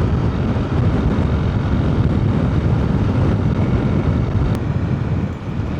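Motorcycle riding along a dirt road, heard from a helmet-mounted microphone: a steady rumble of engine and road noise under heavy wind buffeting on the microphone inside the helmet.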